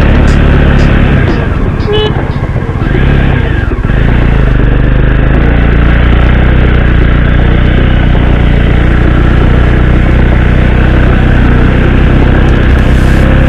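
Motorcycle engine running steadily while riding, its sound dipping briefly about two seconds in, when a short high tone is also heard.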